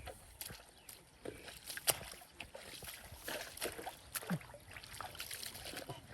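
Irregular splashing and sloshing in shallow muddy water, a run of short slaps and splashes as fish are caught by hand.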